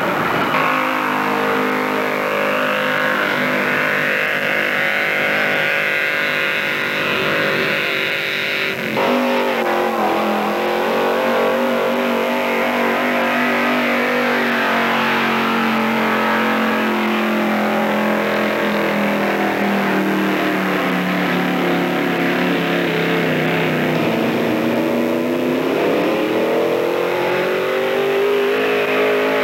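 Vintage Chevy pickup's gas engine running flat out under heavy load as it pulls the sled. The pitch shifts suddenly about nine seconds in, then sags slowly as the load builds and climbs again near the end.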